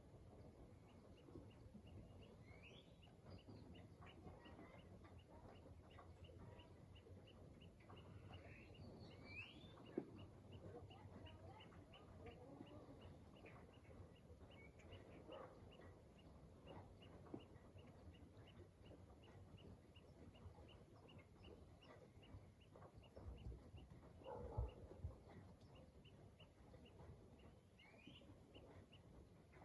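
Faint outdoor ambience. A high-pitched call repeats steadily about three times a second, with scattered short bird chirps over a low rumble. A soft thump comes near the end.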